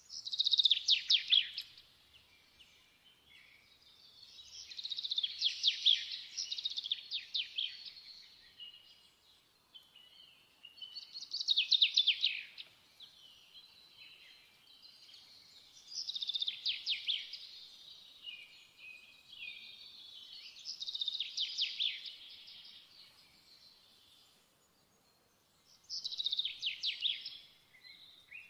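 A songbird singing: six short phrases of fast, high trills, each falling in pitch, repeated about every five seconds.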